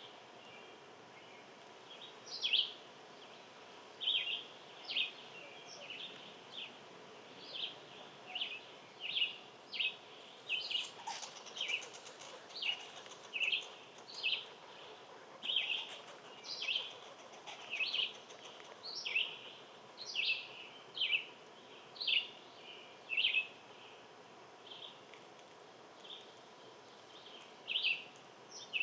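A small bird chirping over and over, short sharp chirps at uneven intervals of about half a second to a second, pausing for a few seconds near the end before a couple more.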